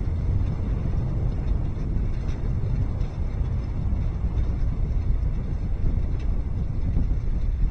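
Steady low rumbling noise of wind buffeting the microphone of an outdoor nest camera.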